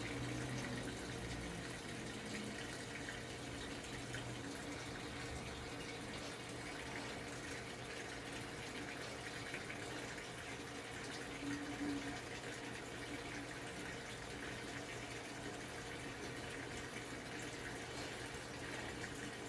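TCL 7.5 kg top-load washing machine filling its tub: a steady rush of water running in, with a faint steady hum.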